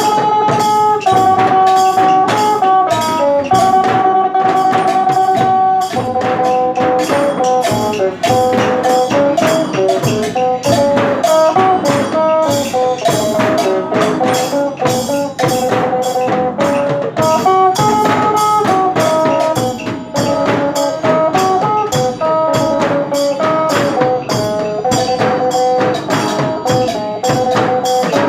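Isan phin, the Thai plucked lute, playing a lively stepping melody over a steady, fast percussion beat.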